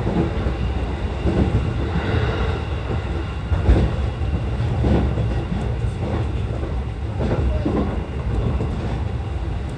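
JR E233 series electric commuter train running along the track, heard from inside the leading car: a steady low rumble of wheels on rail, with a few separate clacks as the wheels pass rail joints.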